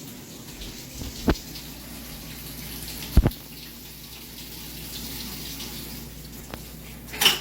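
Steady running water, as from a tap, with three sharp knocks: one about a second in, one a little after three seconds, and one near the end.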